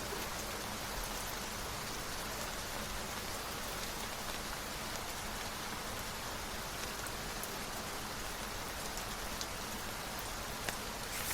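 Steady rain falling, an even hiss of drops on a surface, with a couple of brief sharper ticks near the end.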